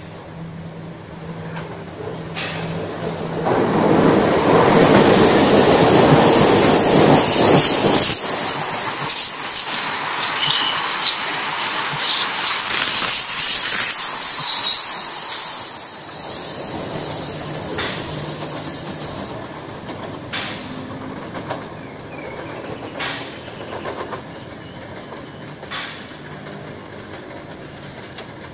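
KTM ETS electric train passing through the station: a rising rush of wheels on rail that is loudest for about twelve seconds, with a high-pitched squeal from the running gear in its middle part. It then dies away to a low rumble as the train recedes.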